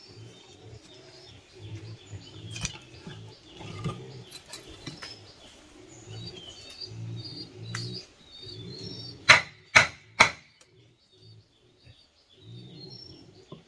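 Hand woodworking: repeated low scraping strokes, broken by three sharp knocks in quick succession a little over nine seconds in, with small birds chirping in the background.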